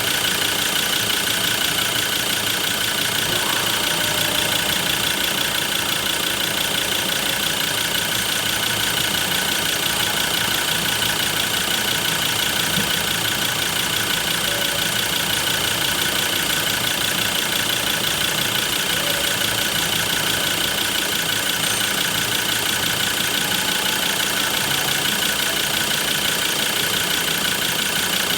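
Ford Ranger 3.2-litre five-cylinder turbo-diesel engine idling steadily.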